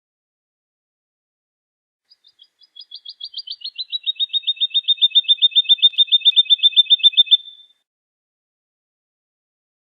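Woodlark singing one phrase: about two seconds in, a fast trill of evenly repeated notes begins softly, swells in loudness and drops slightly in pitch, then stops after about five seconds.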